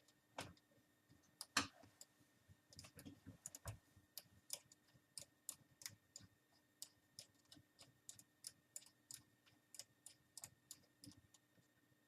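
Faint, quick clicking of a small Phillips screwdriver backing out tiny screws at the corners of a laptop LCD panel, irregular at first, then about three clicks a second.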